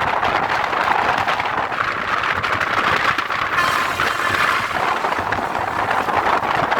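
Steady rushing noise of a moving train, wheels on the rails and wind, with a brief louder hiss from about halfway through.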